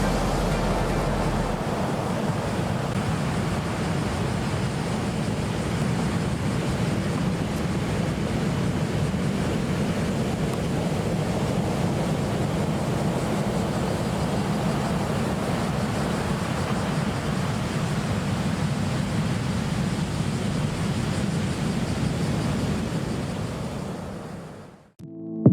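Ocean surf breaking, a steady rush with wind buffeting the microphone, fading out near the end.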